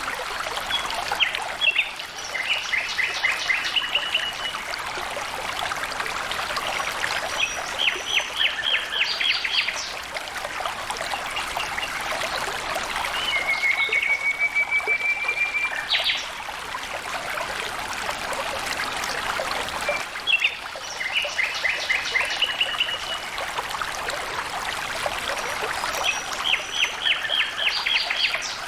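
Water trickling and flowing steadily. A songbird sings short trilled phrases every few seconds, and gives one long, level whistle about halfway through.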